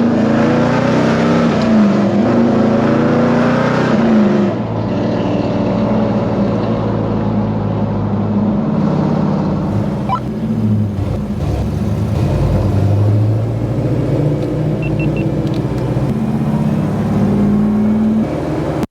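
Big-block V8 muscle car engine accelerating hard: its pitch climbs and drops back at gear changes for the first four seconds or so, then it runs on at a steady cruise.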